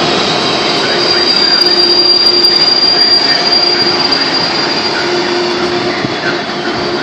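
Trenitalia passenger train running past close along a station platform, a steady rolling rumble with a thin high wheel squeal that rises about a second in and fades out around five seconds.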